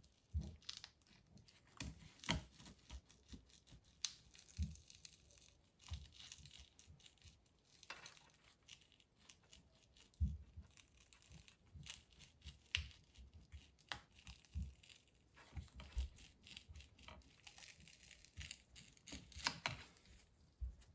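Quiet, irregular scraping, crackling and tearing noises with scattered clicks and taps: a MacBook Pro battery's glued cells being pried and peeled away from their adhesive tape with a pry tool.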